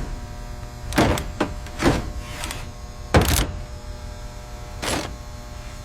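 A series of heavy thunks and clanks, six in all, the loudest a little after three seconds in, over a steady hum.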